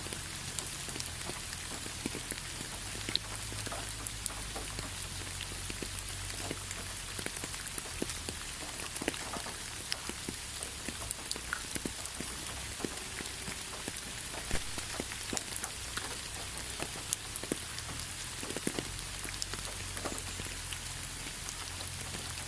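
Steady rain falling, an even hiss with many separate drops ticking irregularly on nearby surfaces.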